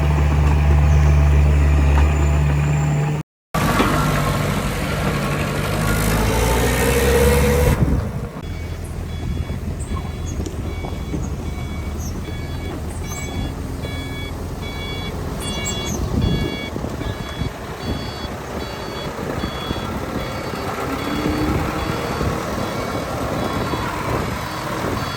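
Heavy diesel earth-moving machinery running loudly for the first several seconds, broken by a brief cut. Then quieter engine rumble with a reversing alarm beeping steadily, at a bit over one beep a second.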